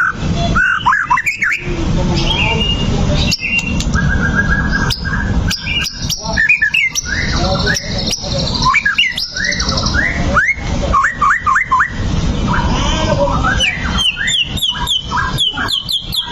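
White-rumped shama (murai batu) singing a varied, loud song of whistled glides, quick repeated notes and sharp clicks, ending in a fast run of short rising notes. The song sounds over a steady low background noise.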